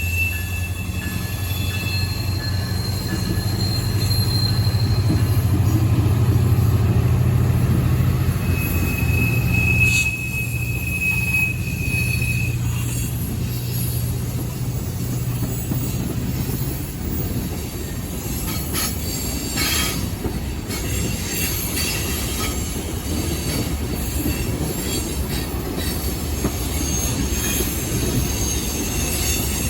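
A train rolling past on the rails, with thin high wheel squeals in the first half over a steady low drone. About halfway through the drone drops away, leaving the rumble of the passing cars with a few sharp clanks.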